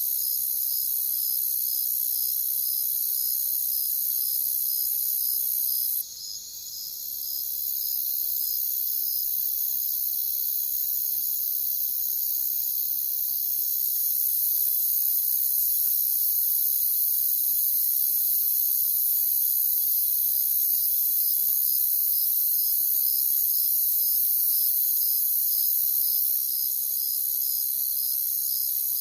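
Chorus of crickets chirping, a steady high-pitched trilling with an even pulsing chirp running through it. The level dips briefly about six seconds in, then builds back up.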